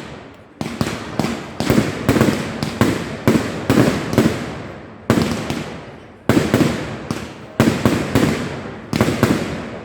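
Fireworks display: a rapid run of loud firework bangs, often two or three close together, each trailing off in a rumbling echo, with short lulls about five and six seconds in.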